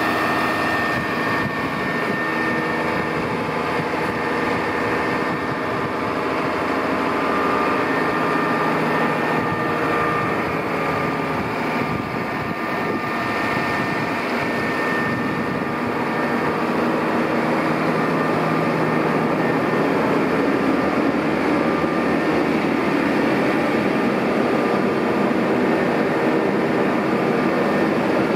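McCormick XTX 200 tractor's diesel engine running steadily, with a steady whine above it. About two-thirds of the way through, the low part of the sound strengthens and it gets a little louder.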